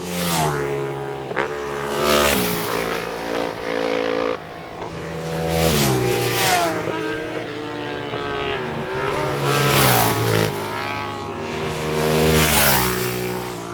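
Racing motorcycles passing one after another at speed, engines revving and changing pitch through the gears. There are about four loud, close passes.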